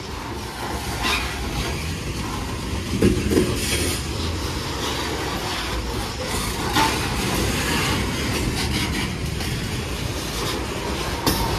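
Freight train's coal hopper cars rolling past close by: a steady rumble of steel wheels on rail, with sharp clacks every few seconds as wheels cross rail joints.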